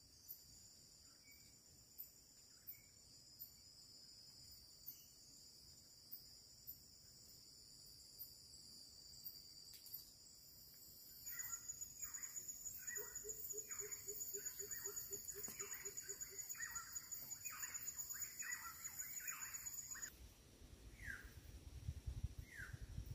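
Forest ambience: a steady high-pitched insect drone, with a dense run of rapid bird chirps in the middle. The drone stops abruptly about 20 seconds in. After it, a few short descending bird calls sound over a low rumble.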